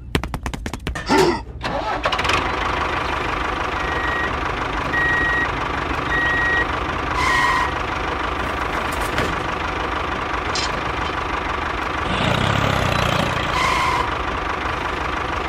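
A tractor engine cranks and catches, then runs steadily at idle. Three short beeps sound a few seconds after it starts.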